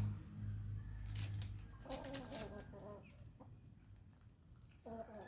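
A chicken clucking: one short call about two seconds in and another starting near the end, with a low hum and some clicks before the first call.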